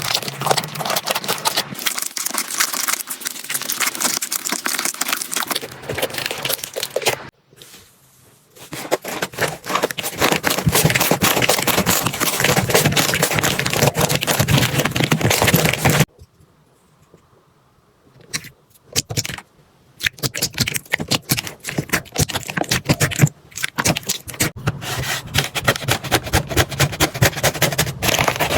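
Slime being squeezed and worked by hand, a dense run of rapid crackles, clicks and wet pops. It breaks off into near silence twice, briefly about seven seconds in and for a few seconds past the middle, then resumes.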